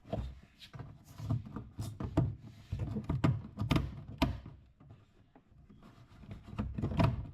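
A stuck trim part on a BMW E36's rear panel being wiggled and pried loose by hand: irregular clicks, knocks and rubbing scrapes, with a short lull before a few more knocks near the end.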